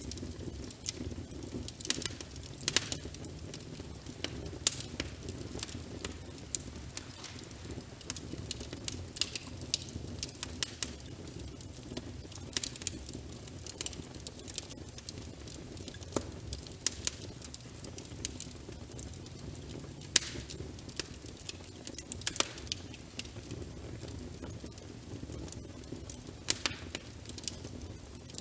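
Crackling wood fire, with irregular sharp pops and snaps over a steady bed of rain patter.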